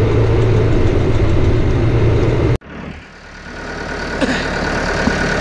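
Tractor diesel engine idling steadily, cut off abruptly about two and a half seconds in, leaving a much quieter background with a faint steady whine and a few light clicks.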